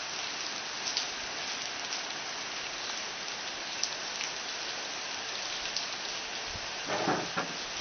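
Steady rain falling, an even hiss with a few sharper drips striking now and then. A brief louder muffled noise comes near the end.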